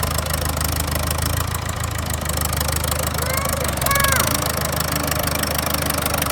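An old Ford tractor engine running steadily at idle, with an even low rumble. A few short, higher-pitched calls cut in briefly about three to four seconds in.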